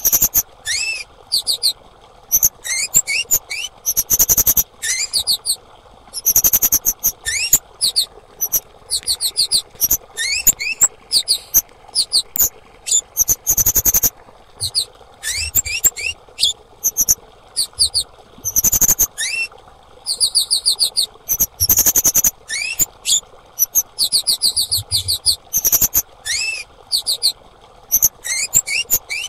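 Female kemade bird calling over and over: short, very high-pitched rapid trills, each series led by quick upward-sweeping notes, repeating every second or two, with a few sharp clicks among them.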